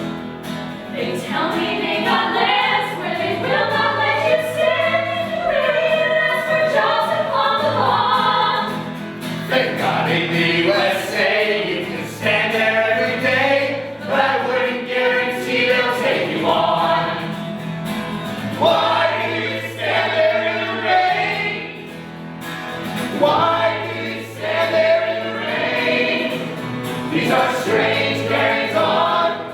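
A choir singing a slow song in parts, with sustained low notes underneath.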